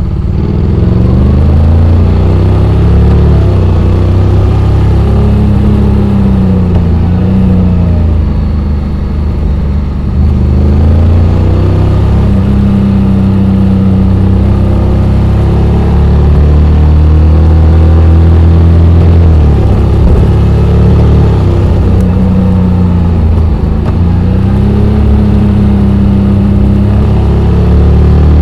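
Honda X-ADV 750's parallel-twin engine running under way, its note dipping and rising several times as the throttle and gears change.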